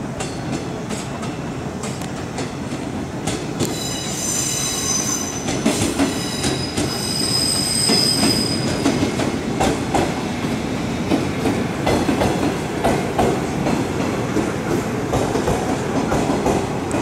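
A green JR 201 series electric commuter train pulling into the station. High wheel squeal rings out for several seconds from about three seconds in, then the cars rumble and the wheels clack over rail joints, growing louder as the train comes alongside the platform.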